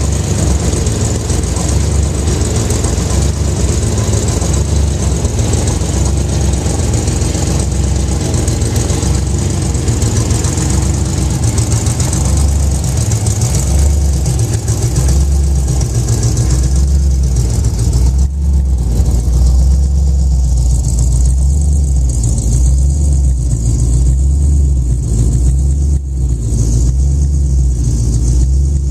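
Supercharged small-block Chevy V8 of a Chevy Nova drag car running at a low, uneven idle with a deep pulsing rumble, then pulling away slowly. The brighter upper sound falls away about two-thirds of the way through as the car moves off, leaving the low exhaust rumble.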